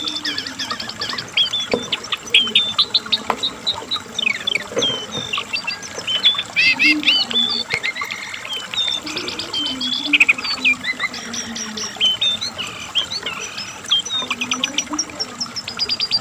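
Lesser shortwing (cingcoang coklat / jongkangan) singing continuously: a fast, varied, high-pitched chattering song of rapid trills, short sharp notes and quick up-and-down sweeps.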